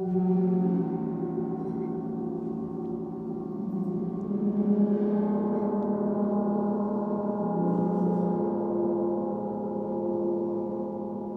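Sound-healing instruments ringing: several low, overlapping sustained tones that swell again about four seconds and eight seconds in.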